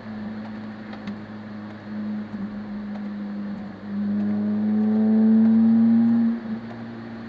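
Car engine heard from inside the cabin on a wet road. It runs lightly off the throttle, then accelerates with rising pitch about four seconds in, and backs off again about six seconds in.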